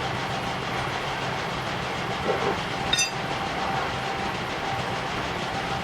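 Machinery running steadily with a low hum, and a single sharp metallic clink about three seconds in.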